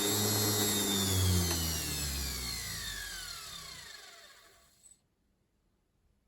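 Washing machine universal motor whining as it slows down, its pitch falling steadily and fading out over about four seconds. A small click near the end, then near silence.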